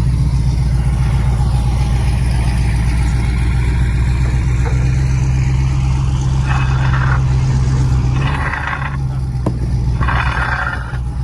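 Engine idling: a loud, steady, deep drone that shifts slightly about eight seconds in, with a few short hissing noises near the end.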